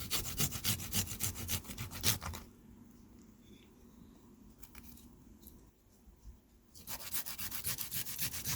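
Food being grated on a hand grater: quick rasping strokes, about five a second, that stop for about four seconds midway and then start again.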